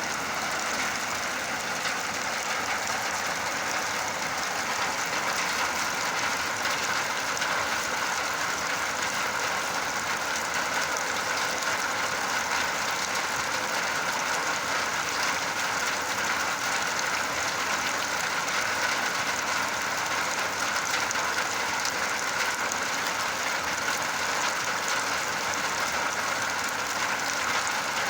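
Steady rain falling: an even, unbroken hiss with no single drops or other sounds standing out.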